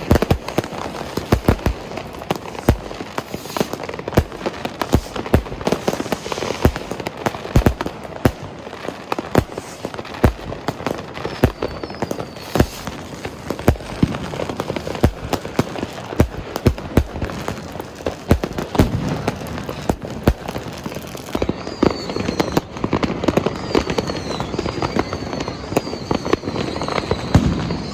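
Many fireworks and firecrackers going off at once, a dense, unbroken string of bangs and pops. In the last several seconds short falling whistles repeat about once a second over the bangs.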